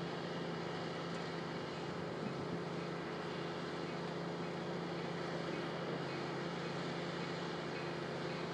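Distant diesel train approaching on the line, a steady low engine drone with an even hum of noise around it.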